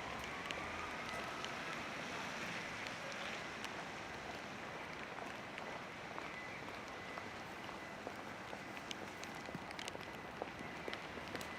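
Steady rain on a city street, with scattered drops tapping close by. A faint high steady tone runs under it for most of the time.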